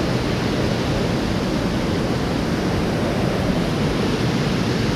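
Steady rushing of water falling and cascading down a rocky stream, a loud, even roar with no breaks.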